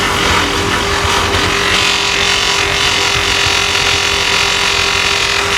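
Powered wire wheel running with a steady motor hum while metal is pressed against it, giving a continuous scratchy hiss as it brushes tarnish off the metal.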